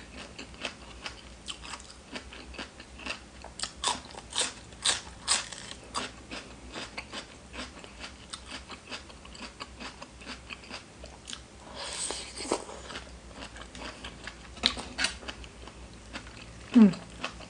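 A person eating close to the microphone: wet chewing and crunching with many short sharp mouth clicks, and a short falling vocal sound near the end, the loudest moment.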